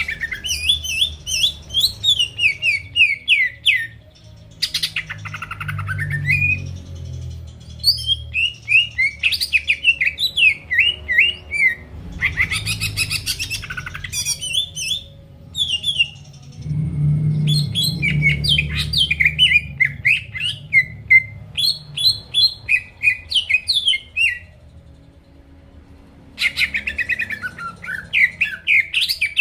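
Greater green leafbird (cucak ijo) in full song: fast bouts of quick, rising and falling chirps and whistles, with short breaks between bouts and a longer pause near the end. A low rumble sits underneath.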